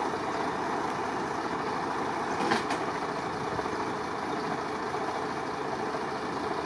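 A large vehicle engine running steadily, with a short clank about two and a half seconds in.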